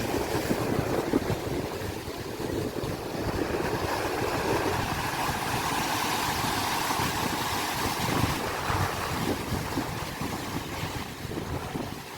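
Sea waves and wind buffeting the microphone: a steady rushing noise.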